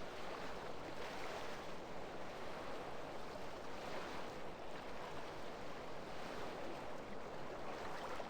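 Faint, steady noise like a hiss, with no distinct events.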